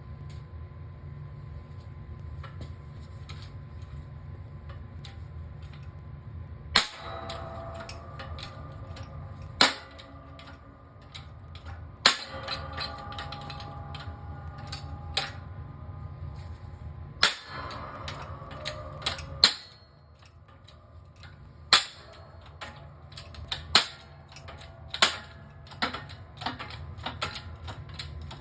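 Hammer blows on metal, each strike ringing briefly. A few heavy single blows come several seconds apart, then more frequent lighter taps and knocks near the end. A steady low hum sits underneath for the first two-thirds, then drops away.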